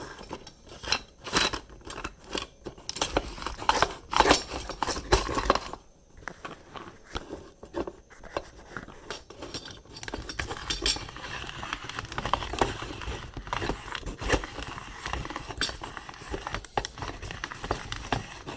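SoulHand hand-crank coffee grinder with ceramic burrs being turned on hard raw green coffee beans, making irregular crunching and clicking. The crunches are separate and sharp at first, then denser and steadier in the second half. The beans are so hard that the crank sticks, too hard for the ceramic burrs.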